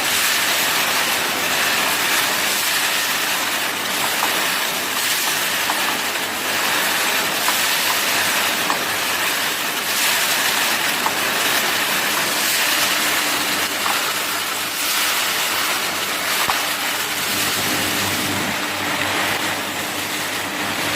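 Electric arc welding: the steady crackling, frying hiss of the arc. A faint low hum joins in a little past halfway.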